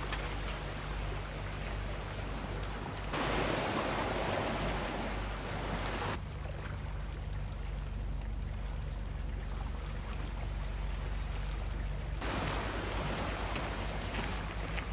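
Sea waves washing in, with two louder surges, a few seconds in and near the end, over a low steady hum.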